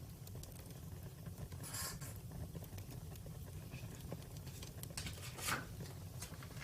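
Wood campfire crackling: scattered sharp pops and snaps over a steady low rumble, with two louder snaps, one near two seconds in and one about a second before the end.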